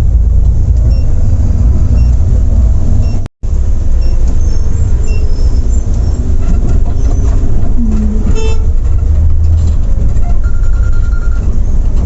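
Steady low rumble of a Volvo B8R bus driving along the highway, with a short vehicle-horn toot about eight seconds in. The sound cuts out for a moment about three seconds in.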